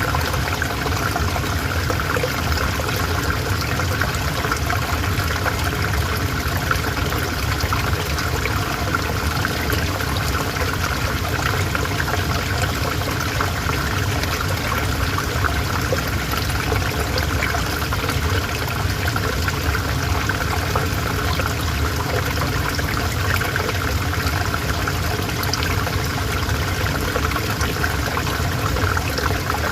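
Calm river water flowing steadily, an even rush and trickle that does not change.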